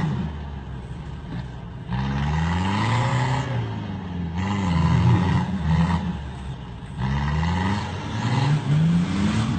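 A 4x4's engine revved hard over and over while it is bogged in deep mud, the pitch climbing and dropping with each rev. It is quieter for the first two seconds, then about five or six revs follow.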